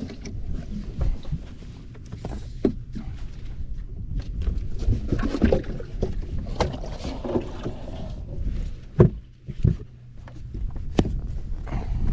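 Sounds of a fishing boat: a constant low rumble with a faint steady hum, scattered knocks and bumps, and two sharper thumps about three quarters of the way through.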